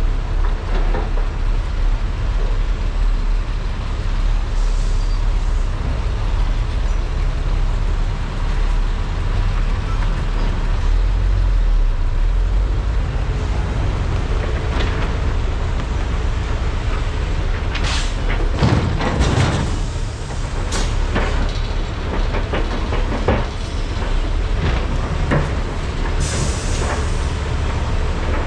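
Large hydraulic mining excavators working, their diesel engines giving a steady heavy low rumble. About two-thirds of the way in there is a run of sharp knocks and clanks, with a few more after it.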